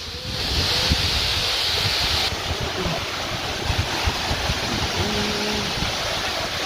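Rushing water with wind buffeting the microphone.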